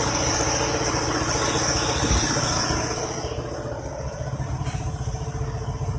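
Scania 580's V8 diesel truck engine running with a steady low beat. A high hiss over it fades away about three seconds in, and the engine settles a little quieter.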